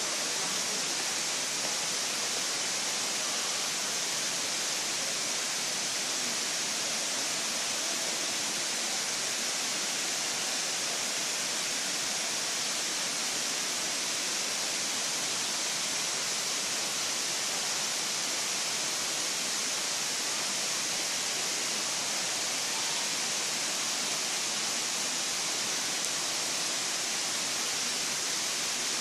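Steady rushing of water falling and pouring over a waterfall's cascades, even and unbroken throughout.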